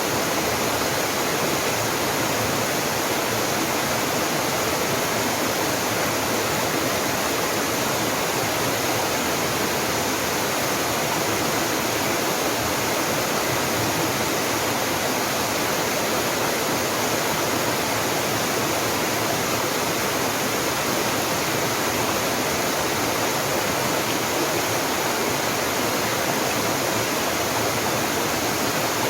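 A small mountain waterfall rushing steadily, its falling water a constant, even roar with no change.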